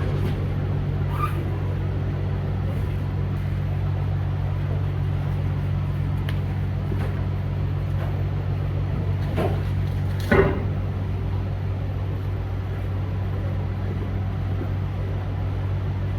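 Big rig truck's diesel engine running steadily while driving, a constant low drone. A short sharp sound stands out about ten seconds in.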